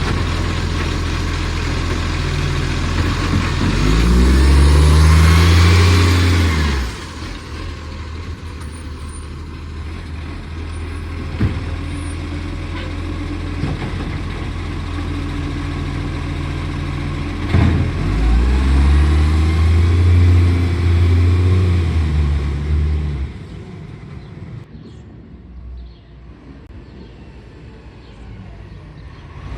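Diesel engine of a side-loader garbage truck with a bad exhaust leak, idling and twice revving up for a few seconds before dropping back. The leak adds a loud rasp to the engine note.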